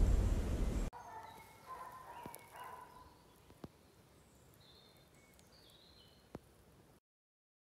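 A low rumble cuts off about a second in, leaving faint birdsong: short whistled notes, some sliding, with a couple of light clicks. The sound stops dead near the end.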